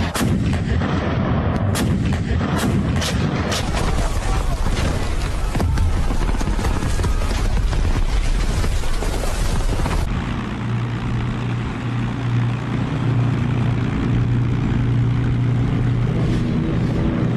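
Battle sound effects: repeated gunshots and booms over a dense rumble. About ten seconds in, the firing gives way to a steady low drone.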